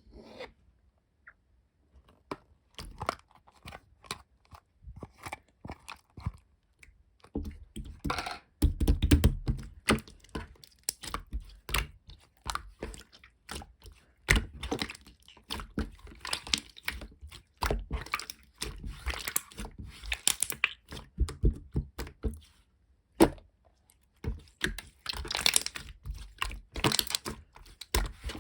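Irregular clicks, knocks and crackling noises at close range, with busier crunching stretches about eight seconds in and near the end.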